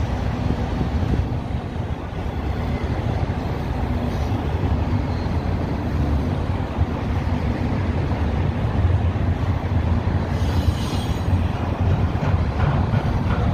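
Double-stack intermodal freight cars rolling past: a steady low rumble of steel wheels on rail. A brief higher-pitched noise comes in about eleven seconds in.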